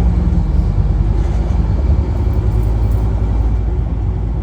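Scania N230UD bus's diesel engine running with a steady low rumble, its pitch shifting slightly as it pulls.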